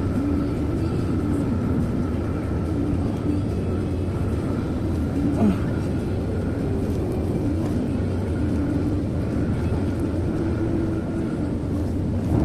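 Steady car cabin noise while driving at speed: engine and tyre hum heard from inside the car, with a brief faint sliding sound about halfway through.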